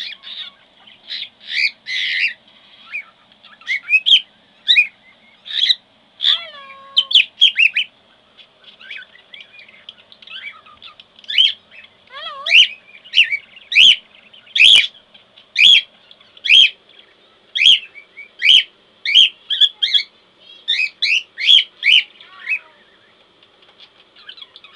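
Young male cockatiel whistling and chirping in quick, rising calls. About halfway through come sharp taps on its play gym, about one a second, typical of a cockatiel's tap-dance display.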